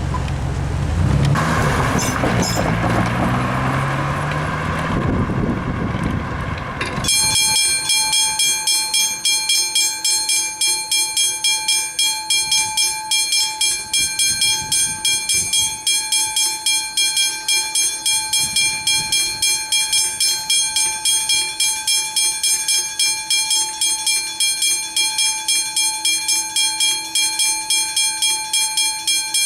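A train passing over the crossing with a gliding whine. About a third of the way in it gives way suddenly to level crossing warning bells, ringing rapidly and evenly at about three strikes a second.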